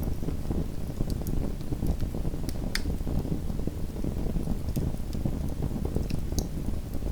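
Small wood fire in a fireplace burning with a steady low rush and a few scattered sharp crackles, the loudest nearly three seconds in.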